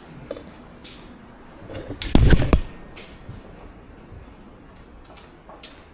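A few scattered light clicks and knocks, with one heavier, deep thud about two seconds in.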